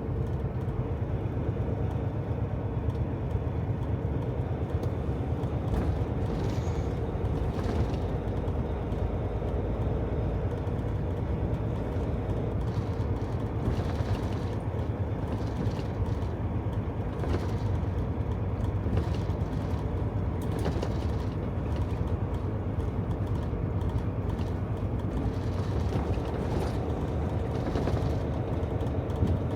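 Steady low engine and road drone inside a semi-truck's cab while it drives, with a few faint knocks here and there.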